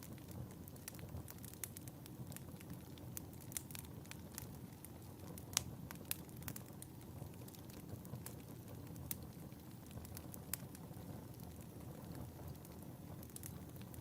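Fireplace fire burning steadily, a low rumble under irregular sharp crackles and pops, the loudest pop about halfway through.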